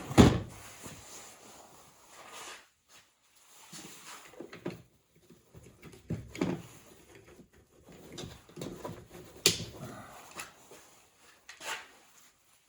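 Hard plastic parts of a Bissell floor scrubber being handled and set down during disassembly: a string of knocks and clatters, the loudest right at the start and another about nine and a half seconds in.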